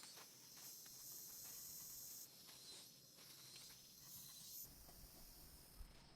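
Quiet outdoor ambience: a faint high hiss with scattered light clicks. About four and a half seconds in, a low rumble comes in.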